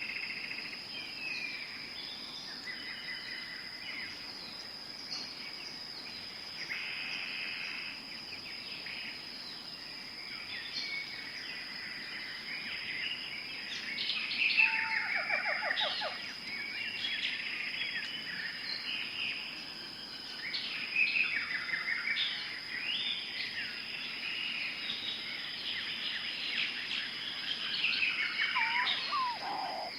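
Tropical forest ambience: many birds calling at once with chirps, trills and whistles over a steady high-pitched tone, busiest in the second half.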